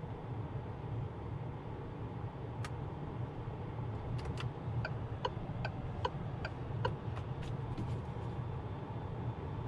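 Steady low rumble inside the cabin of a DS 9 E-TENSE 225 plug-in hybrid. About halfway in comes a run of sharp, evenly spaced ticks, about two to three a second, like a turn-signal indicator, with a few duller clicks around them.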